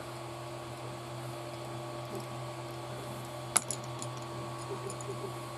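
Small plastic and metal parts of an RC buggy's front suspension arm being handled on the bench: one sharp click about three and a half seconds in, then a few light ticks, over a steady hum.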